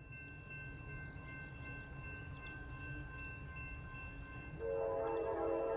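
Norfolk Southern diesel freight train approaching with a low engine rumble, then the locomotive's air horn sounds loudly about four and a half seconds in.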